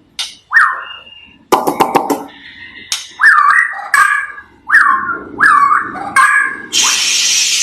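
White-rumped shama singing in rapid bursts. Quick whistled notes swoop down and back up, repeating roughly every three-quarters of a second. About a second and a half in comes a cluster of sharp clicking notes, and the last second is a harsh hissing rasp.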